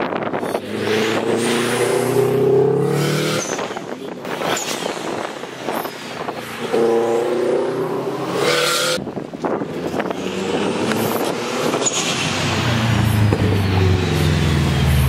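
A car engine revved hard again and again, each rev climbing in pitch, in short stretches that break off abruptly about three and a half and nine seconds in.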